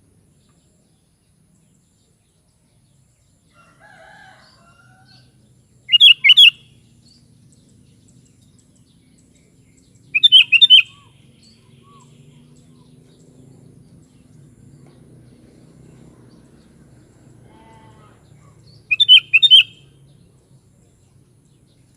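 Sooty-headed bulbul singing three short, bubbly song phrases, spaced a few seconds apart.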